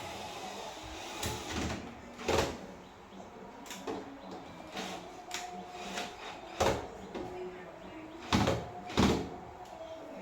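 Irregular knocks and clunks of hard parts and tools being handled while working on a washing machine, about eight in all. The loudest come as a pair near the end.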